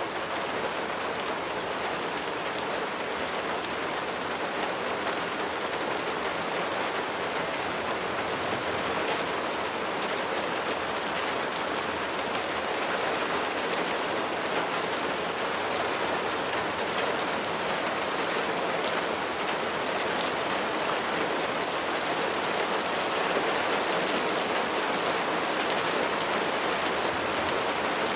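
Steady rain falling, a dense even hiss with many fine individual drop ticks.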